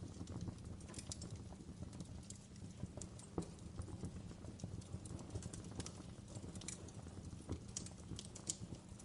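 Wood fire crackling in a fireplace: a steady low rumble of flame with irregular sharp pops and snaps, a few louder ones scattered through.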